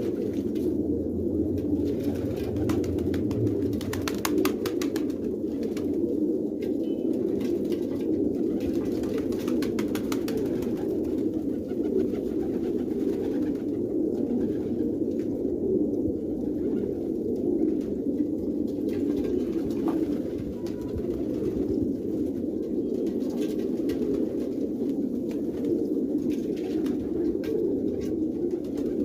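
Domestic fancy pigeons cooing, a low, continuous overlapping burble.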